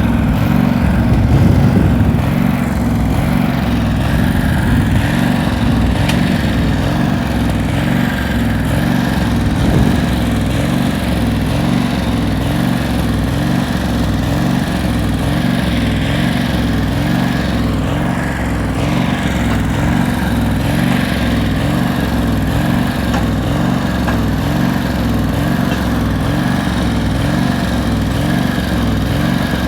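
Tractor engine running steadily, with a slow, even throb.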